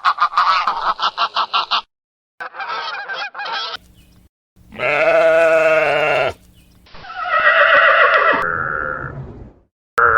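Farm animal calls in several abruptly spliced clips: a rapid run of pulsed, honk-like calls, a shorter run after a brief break, then two long pitched calls.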